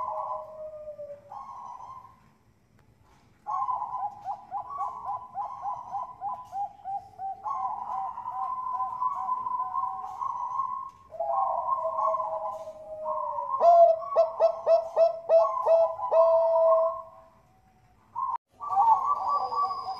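Zebra dove (perkutut bangkok) cooing: rolling phrases of quick, evenly repeated coo notes, broken by two short pauses, with a faster clipped run of notes in the middle.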